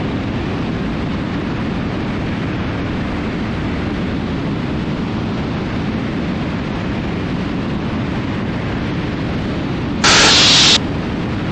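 Steady rush of airflow and engine noise on a wing-mounted camera of a Cessna T310R twin in flight. About ten seconds in, a brief, louder burst of hiss from the cockpit audio feed cuts in and stops suddenly.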